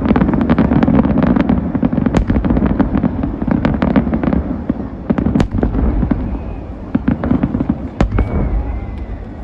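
Fireworks going off in a dense, rapid barrage of bangs and crackles over a low rumble, thinning out and fading in the last few seconds, with one heavy bang about eight seconds in.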